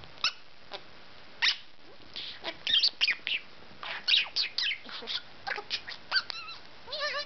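Pet budgerigar chattering: short sharp chirps and quick sweeping squeaks, sparse at first and much busier from about two seconds in, with a rapid warbled trill near the end.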